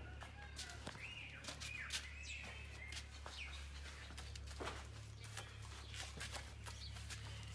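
Birds chirping and calling, short rising and falling calls scattered through, over a steady low hum, with a few light clicks and taps.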